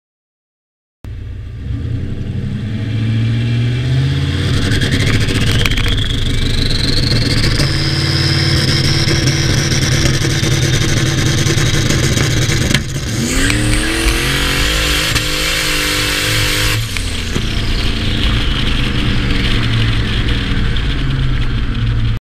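Turbocharged 6.0 LS V8 with an 80 mm turbo, held on the foot brake against a two-step limiter at about 2100 rpm: a turbo whine rises steadily as boost builds to about 7 psi, then holds. About 13 seconds in, a sharp crack, and the engine note and turbo whine climb for about four seconds before falling off. The engine then runs steady.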